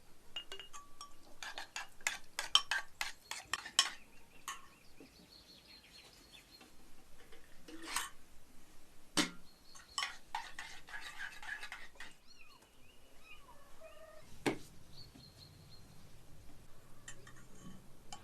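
Dishes and utensils clinking and clattering: a quick run of light clinks a couple of seconds in, then a few single sharp knocks, with a busier clatter around the middle. Faint bird chirps can be heard between them.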